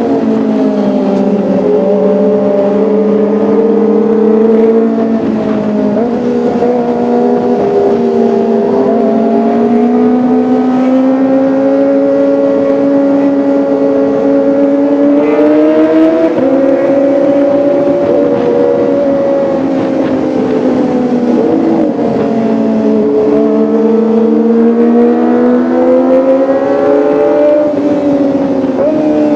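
Kawasaki ZX-25R's inline-four engine running at steady, fairly high revs, its pitch drifting gently up and down several times with small throttle changes.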